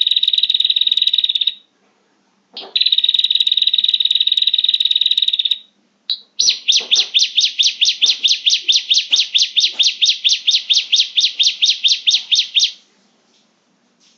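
Prinia (prenjak) song used as a trapping lure call. Two long, fast buzzy trills of about three seconds each, then a quicker series of about six sharp notes a second for about six seconds, which stops near the end.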